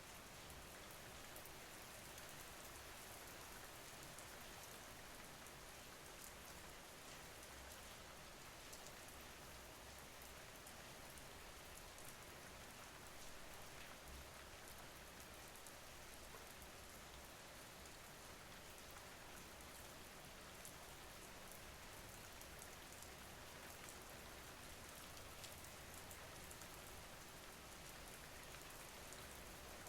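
Faint, steady rain ambience: rain falling on a surface, with scattered small drop ticks.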